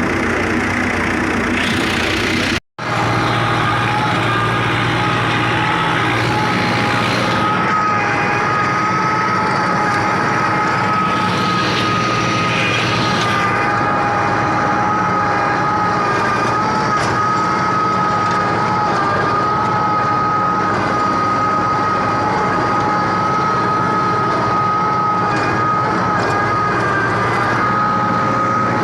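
Fiat 640 tractor's diesel engine running steadily under load while driving a 66-blade rotavator, with a steady high whine over the engine noise. The sound drops out for an instant about three seconds in.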